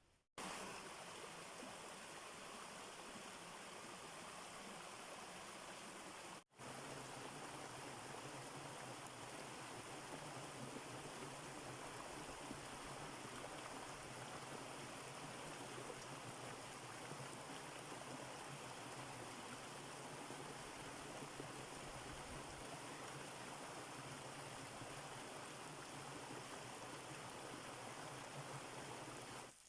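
Steady rush of running water, like a stream, broken by two brief cuts near the start.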